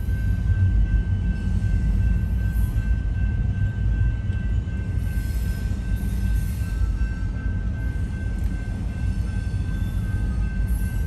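Double-stack container train rolling slowly in reverse through a grade crossing, heard from inside a waiting car: a steady low rumble with a thin, steady high tone over it.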